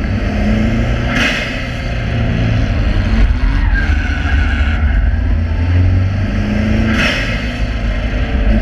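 Subaru Impreza's flat-four boxer engine under hard acceleration, its revs rising and falling several times through the gears and corners. Two brief rushes of hiss come through, about a second in and near the end.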